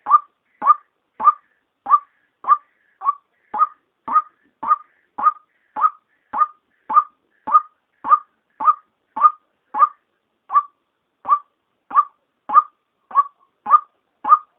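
White-breasted waterhen call, the female's: one short note repeated evenly, a little less than twice a second. It is a lure call, played to draw waterhens in for trapping.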